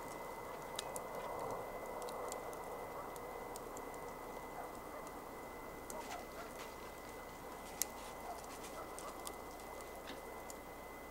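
Wood campfire burning: a steady hiss with scattered crackles and small pops, one sharper pop about eight seconds in.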